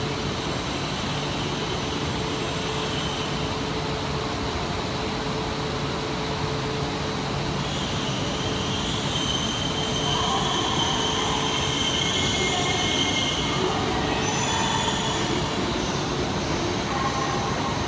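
Shinkansen train running in the tunnel toward the underground platform: a steady rumble with high-pitched wheel squeal, getting a little louder about halfway through as it approaches.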